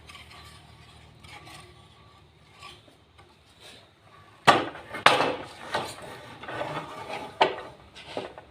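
Pieces of wood being worked by hand: faint rubbing and scraping, then from about halfway through a run of sharp wooden knocks, the first the loudest.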